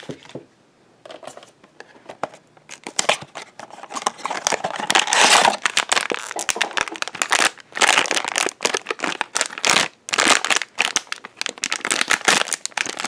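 A blind-box mini-figure package being opened by hand: the box and its wrapper crinkle, rustle and tear in quick irregular bursts. It starts faintly about a second in and grows louder from about four seconds in.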